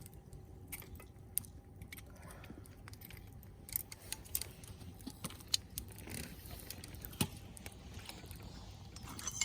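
Log fire crackling, with irregular sharp pops from the burning wood.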